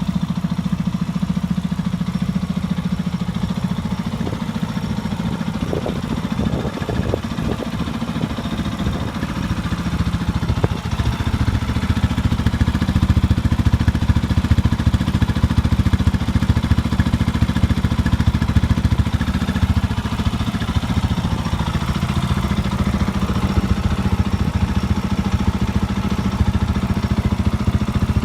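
Jawa 350 OHC Special motorcycle's single-cylinder engine running steadily at idle. A few short clicks come through between about six and eleven seconds in, and the engine sounds a little louder from about halfway through.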